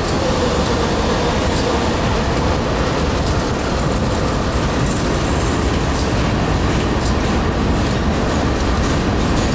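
Covered hopper cars of a KCS grain train rolling past: a steady rumble of steel wheels on rail with some clicking over the rail joints.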